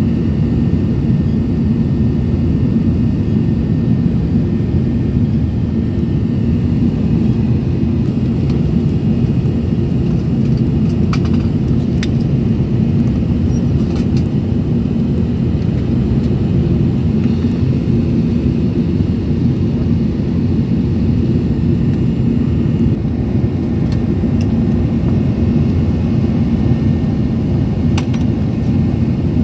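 Airbus A380 engines and airflow heard as a steady, loud low rumble with a faint high whine on top, holding even throughout. A few faint clicks come through about eleven to fourteen seconds in and again near the end.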